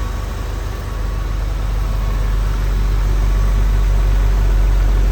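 1999 Porsche 911 Carrera's 3.4-litre water-cooled flat-six idling steadily while it warms up after a cold start.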